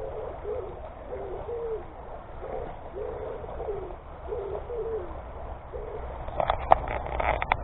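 A pigeon cooing in repeated short phrases of low, soft notes. A quick run of sharp clicks comes near the end.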